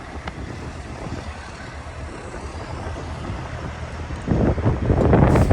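Wind buffeting the microphone over a low outdoor rumble, turning much louder and gustier about four seconds in.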